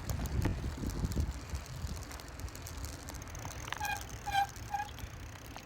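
Wind and road rumble from a bicycle being ridden, with scattered light clicks. Near the end come three short, pitched squeaks.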